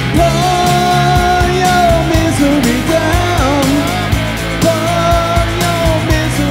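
Live rock band playing a grunge-style song, with drums and guitars under a held, wavering melody line.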